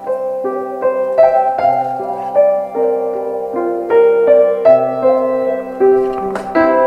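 Piano playing a slow, lilting instrumental melody of single notes over held chords, about two to three notes a second, with no singing. A brief sharp click sounds near the end.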